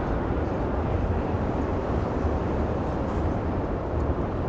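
Steady low rumble of a Tokyo Metro 03 series train rolling toward the camera over a steel truss railway bridge.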